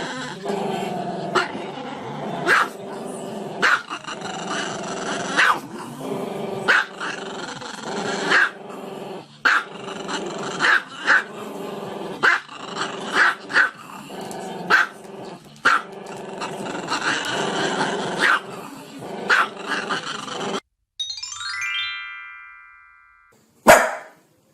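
A dog barking in sharp single barks about once a second over a steady background of music. About 21 seconds in the barking stops, a series of tones falls in pitch, and one more loud bark comes near the end.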